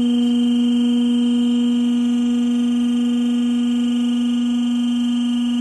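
Electric warning buzzer sounding one loud, steady, unbroken tone as the sigma mixer's chamber is tilted by its hydraulic cylinder to discharge the material.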